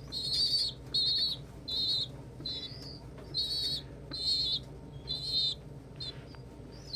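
Young pigeon (squeaker) begging for food with a rapid run of shrill, wavering squealing cries, about one a second, growing fainter and sparser near the end.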